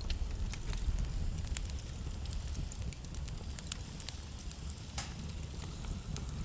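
Wood fire burning in a fireplace: a steady low rumble of the flames with irregular sharp crackles and pops from the burning logs, a louder pop about five seconds in.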